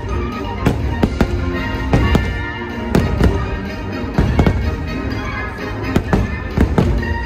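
Aerial fireworks shells bursting in quick, irregular succession: about fifteen sharp bangs, several coming in close pairs. Show music plays steadily underneath.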